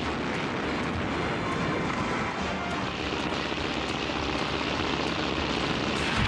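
Propeller airplane engine running steadily, with no change in pitch.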